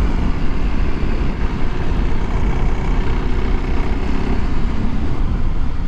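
Kawasaki KLX300 dual-sport motorcycle's single-cylinder engine running steadily as the bike is ridden along a dirt road.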